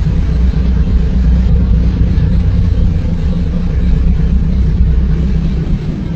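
A loud, steady low rumble of a motor vehicle running.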